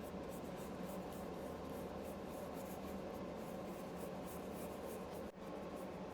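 Black wax being rubbed onto a crackled, milk-painted wooden board: a steady, quiet scratchy rubbing made of repeated strokes.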